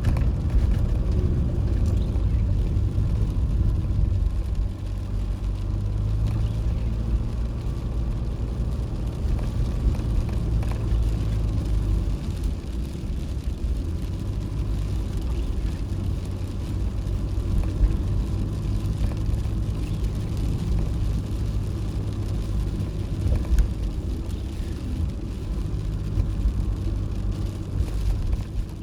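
Toyota HiAce van driving, with a steady engine hum and road rumble heard from inside.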